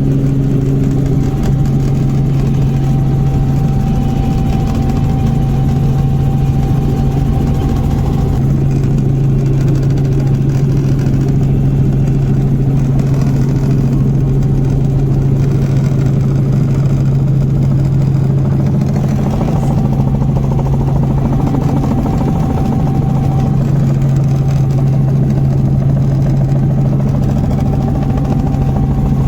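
Helicopter in flight, heard inside the cabin: a loud, steady low drone from the rotor and engine that holds constant throughout.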